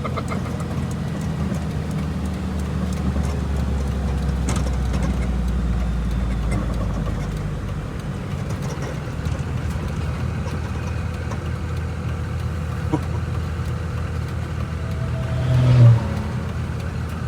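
5.9 Cummins six-cylinder diesel of a Dodge W600 Power Wagon idling steadily, with a boost tube blown off its boot, and a brief louder swell near the end.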